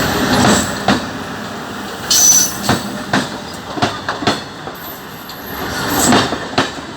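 Electric MEMU train running on the track, its wheels knocking irregularly over rail joints, with brief high-pitched wheel squeals about two seconds in and again around the middle.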